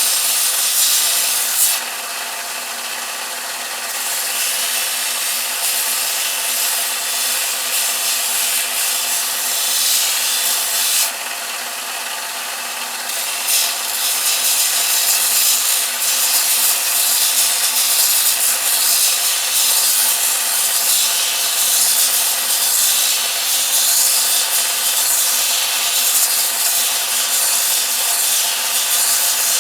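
Electric belt sander running and sanding a carved wooden piece to round it down, a steady abrasive rasp over a motor hum. The rasp eases off twice for a couple of seconds, about two and eleven seconds in.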